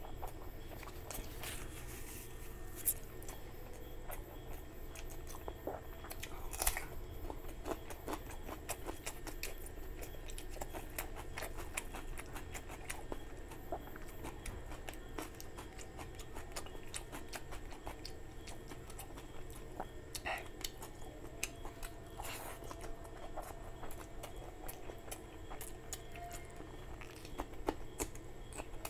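Close-miked mukbang eating sounds: a person chewing mouthfuls of rice and curry, with wet smacking and many small irregular clicks, plus squelching as fingers mix rice into curry. A few louder smacks about 3 and 7 seconds in.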